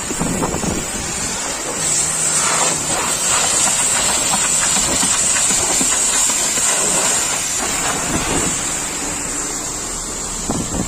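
Pressure washer spraying in a steady hiss, stronger from about two seconds in and easing off near the end.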